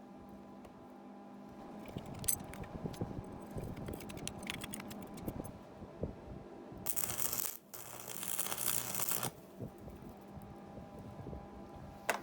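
Workshop handling sounds: metal parts and tools being picked up and set down, with scattered clatters and clicks over a steady electrical hum. Midway a harsh rushing noise runs for about two seconds.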